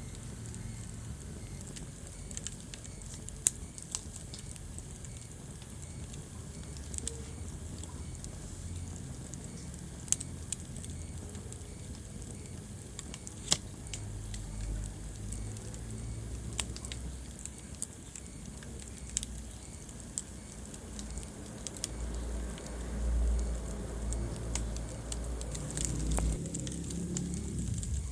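Wood fire burning in a fireplace: sharp crackles and pops at irregular intervals over a low rumble of the flames, which swells for a few seconds near the end.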